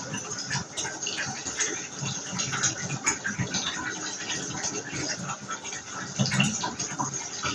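Tap water running into a bath, a steady rush with irregular gurgles and splashes.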